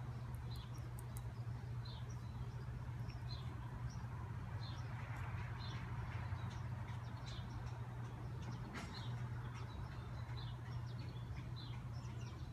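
A small bird chirping: short high chirps repeated about once a second over a steady low hum.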